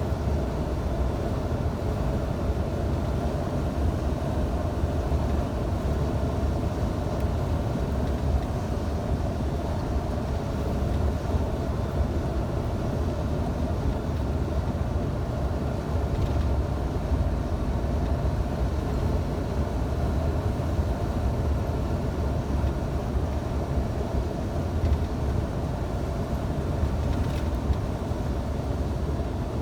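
Scania truck's diesel engine and road noise while driving, a steady low drone.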